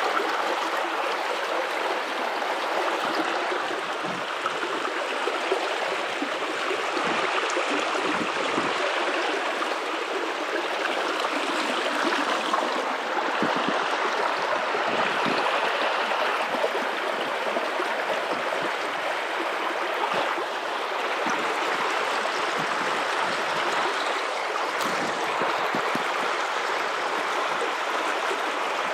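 A river's running water: a steady, even rush of flowing water.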